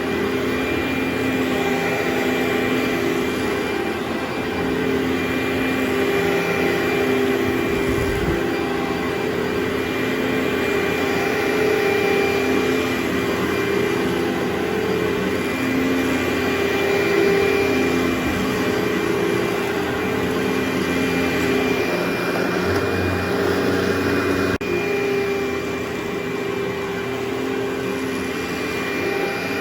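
Carpet cleaning machine's vacuum running steadily: a constant drone with a steady hum.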